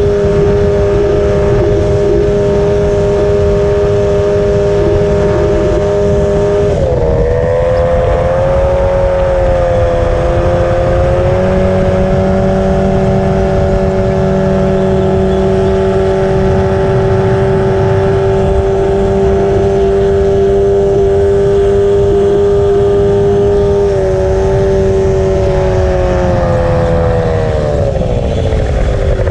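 Race boat's engine running hard at high, steady revs. The pitch dips briefly about seven seconds in, then settles, and falls away near the end as the throttle eases.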